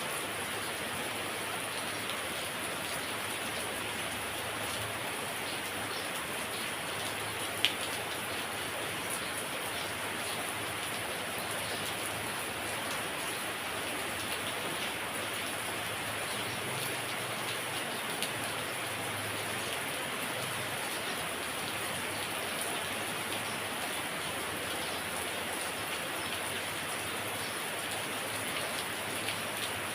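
Heavy rain falling steadily, with a single sharp tick about eight seconds in.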